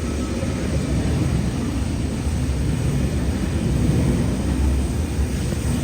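A train running through with a steady low rumble.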